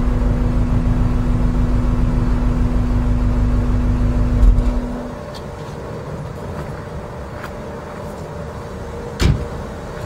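Subaru Legacy GT's 2.5-litre flat-four idling through a custom exhaust (knock-off Borla mufflers, high-flow cat, STI midpipe and resonator), a low, even pulsing rumble. About five seconds in it swells briefly and then cuts out, leaving quiet background with a single sharp knock near the end.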